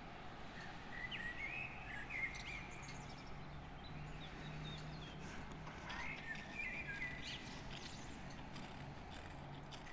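A songbird singing two short warbling phrases, one about a second in and another about six seconds in, over faint steady background noise.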